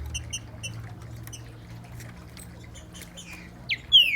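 Green-winged saltator (trinca-ferro) calling: a few soft, short chip notes, then near the end loud descending whistled notes as a song phrase begins.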